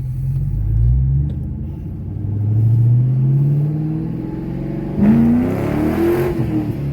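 Ford Mustang V8 accelerating, heard from inside the car: the engine note climbs steadily in pitch, then about five seconds in a louder surge comes in whose pitch rises and falls.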